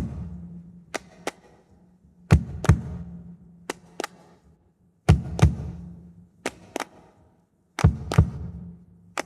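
Isolated drums-and-handclaps track from a 1960s pop record: sharp strikes in a steady repeating pattern, most coming in pairs. The stronger hits carry a low ringing drum tone, and there are near-silent gaps between them.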